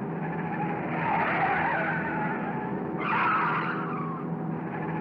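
Cartoon race car sound effect: an engine running steadily at speed, with tires screeching twice, once about a second in and again, more sharply, at three seconds, each screech falling in pitch.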